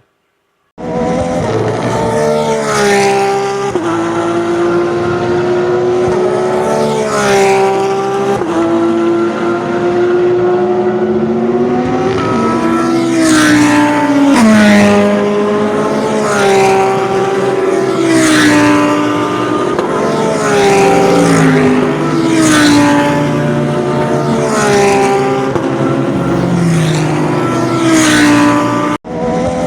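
GT3 race car engines at full song as cars pass one after another, the pitch climbing and then dropping with each gear change. The sound cuts out briefly near the end.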